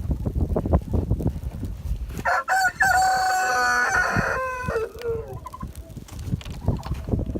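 A rooster crowing once: one long call of about two seconds that falls away at the end. Low thumping and rustling come before and after it.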